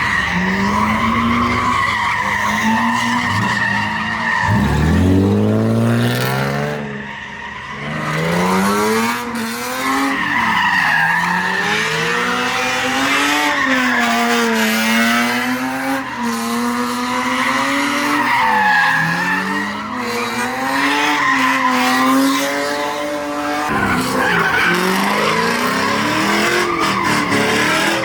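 A car's tyres squealing continuously while its engine is held at high revs, the revs rising and falling as it spins. About four and a half seconds in, the engine sweeps sharply up from low revs.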